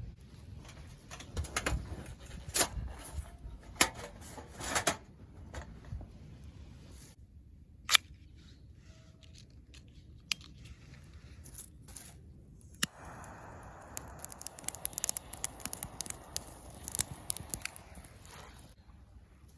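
Scattered clicks, knocks and rustles of camp cooking gear being handled. In the second half a steady hiss starts suddenly and runs for about six seconds, with small clicks over it.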